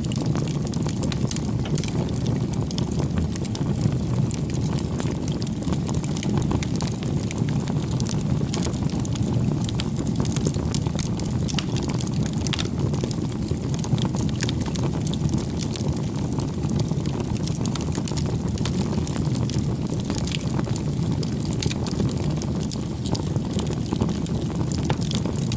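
Campfire burning: a steady low rumble of the flames with frequent irregular crackles and pops from the burning wood.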